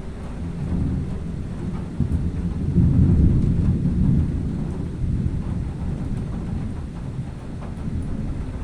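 Rolling thunder: a low rumble that builds to its loudest about three seconds in, then slowly dies away.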